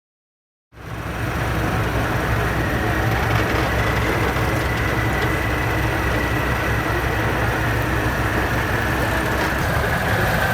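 Heavy military truck diesel engine running steadily, starting abruptly just under a second in, with a thin steady whine above the engine note.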